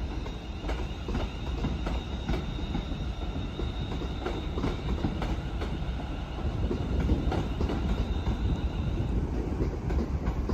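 A train moving along the platform, with low rumble, repeated clicks of wheels over rail joints and a thin high-pitched wheel squeal that stops about nine seconds in.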